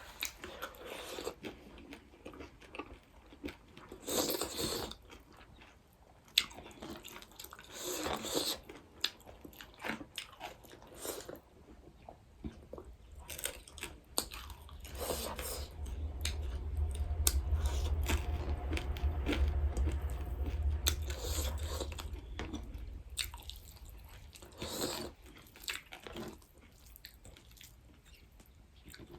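Close-up eating sounds: a person chewing and biting food in irregular bouts, with crunchy bites and wet mouth clicks. A low rumble runs underneath for several seconds in the middle.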